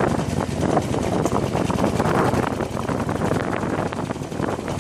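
Harley-Davidson Iron 883N's air-cooled V-twin engine running on a rough off-road track, with wind noise on the microphone.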